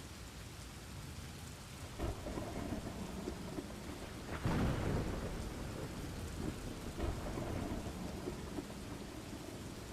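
Steady rainfall with rolling thunder. A louder, deep rumble of thunder swells about halfway through, with lighter rumbles a couple of seconds before and after.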